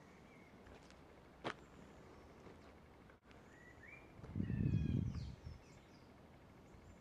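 Small birds chirping in short whistles and slides over a quiet background hiss. There is a single sharp click about a second and a half in, and a low rumble lasting just over a second a little past the middle, which is the loudest sound.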